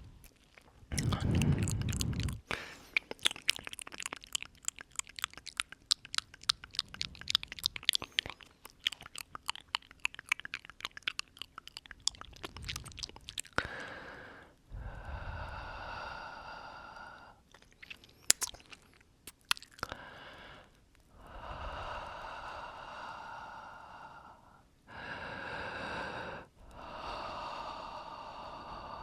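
Close-up ASMR mouth sounds: rapid wet clicks and smacks for about the first half, with a low breathy puff near the start. These give way to a series of slow breaths exhaled onto the microphone, each about two seconds long with short gaps between them.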